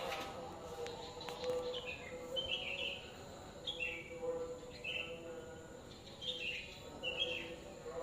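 Songbirds chirping: a short falling call repeated roughly once a second, over a steady low hum.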